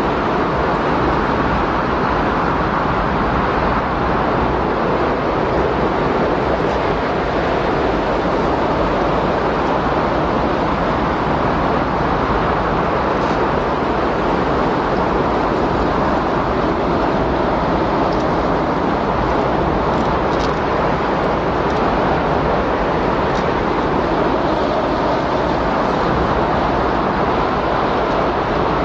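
Windstorm: strong wind blowing steadily, an even rushing noise that neither rises nor falls.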